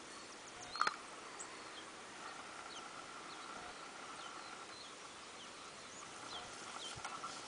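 Birds chirping outdoors: scattered short, high chirps, with one louder call about a second in, over a steady faint high tone.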